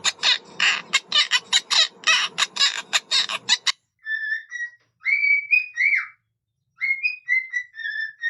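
Pet parrot calling: a fast run of short harsh squawks, about four or five a second, then, after a brief pause, clusters of short whistled chirps with quick upward and downward pitch slides.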